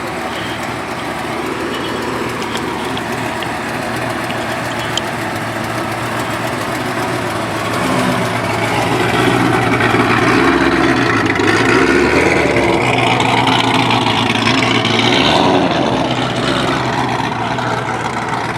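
Car engine and exhaust running, a steady hum that grows louder about eight seconds in and eases off near the end, as a car comes closer or is revved.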